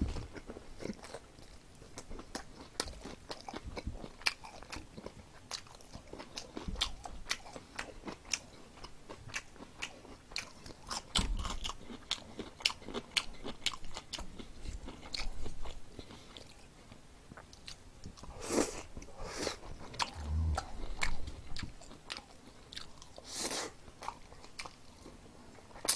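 Close-up crunching and chewing of crisp-battered fried chicken: many small crackling crunches throughout, with a few longer, louder crunches about two-thirds of the way through.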